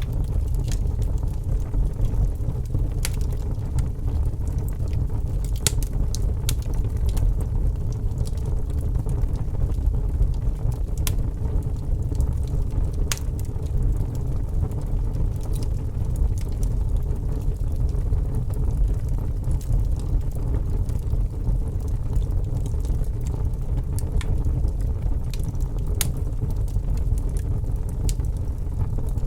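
Wood fire burning with a steady low rumble of flames and irregular sharp crackles and pops, a few each second.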